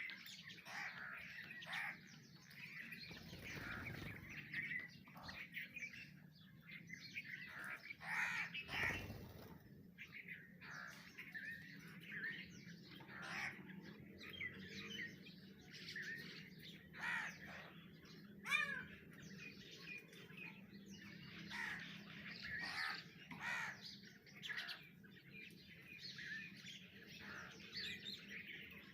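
Songbirds singing and calling without pause, a busy mix of quick chirps, warbles and some harsher notes. A low rumble rises briefly twice, around four and nine seconds in, under a faint steady hum.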